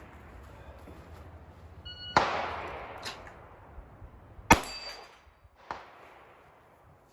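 A shot timer beeps about two seconds in, and sharp pistol shots ring out in the seconds after it as a single shot is fired at a steel plate; the loudest crack comes about halfway through, with a fainter crack about a second later.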